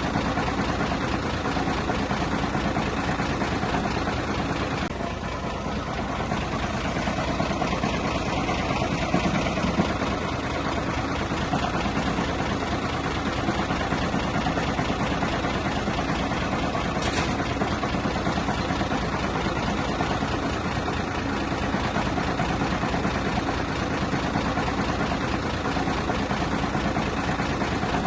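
Heavy diesel engine of earthmoving machinery running steadily, a dense low rumble.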